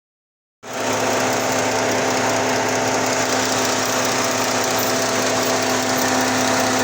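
Mercedes-Benz engine idling steadily on new ignition coils and spark plugs fitted to cure cylinder 1 and 2 misfires. It starts abruptly under a second in.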